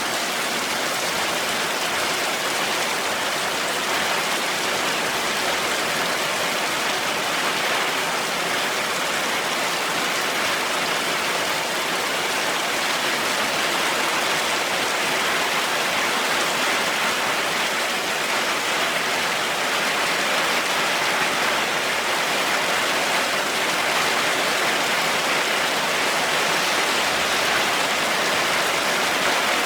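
Heavy rain falling steadily: a dense, even hiss with no thunder or other sudden sounds.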